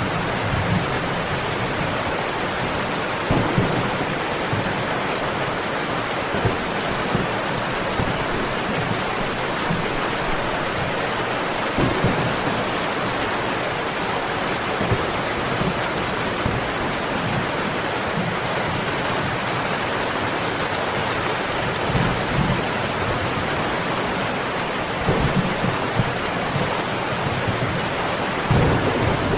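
Steady, dense rainfall with brief low rumbles every few seconds.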